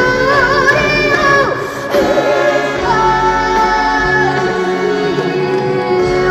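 A young girl's voice singing a trot song over an instrumental backing track, with wavy vibrato early on and then long held notes.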